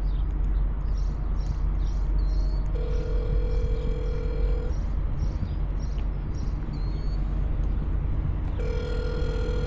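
Telephone ringback tone through a phone's speaker: two rings of about two seconds each, about four seconds apart, the call ringing through after the automated menu. A steady low rumble runs underneath.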